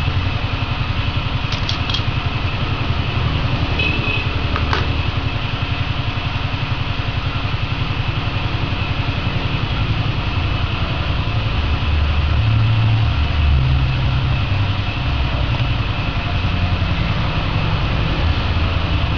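A steady low mechanical rumble with a fast, even flutter, like an idling engine, with a few light clicks in the first five seconds.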